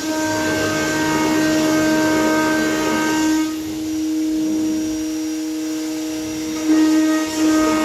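CNC router spindle running at a steady high whine while its bit mills aluminium composite panel, with a hissing cutting noise. The cutting noise eases off about halfway through and comes back louder near the end.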